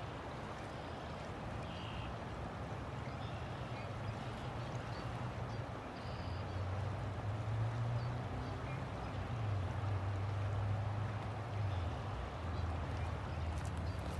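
River water flowing steadily, with a low rumble beneath it that grows louder from about halfway through.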